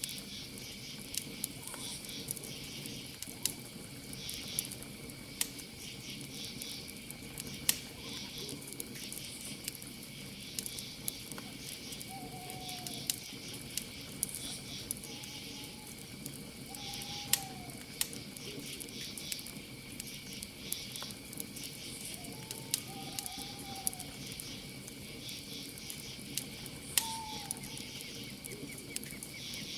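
Campfire crackling with frequent sharp pops, over a steady chorus of crickets and night insects. An owl gives short hoots several times in the second half.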